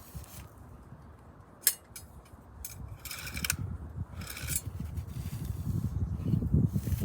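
Handling noises of rubbing and scraping, with a sharp click about a second and a half in and two brief scraping rasps in the middle; a low rumble grows louder toward the end.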